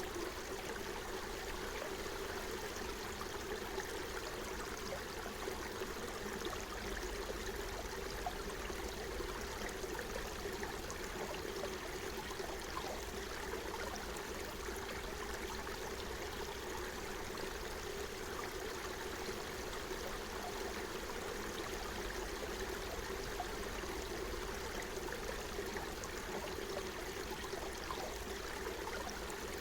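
Forest stream running over stones, a steady, even babble and trickle of water.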